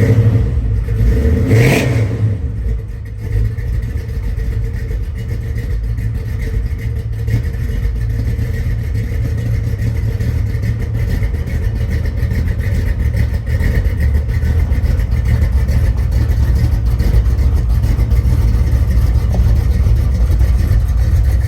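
Vehicle engine running steadily with a heavy low rumble, and a brief louder burst about two seconds in.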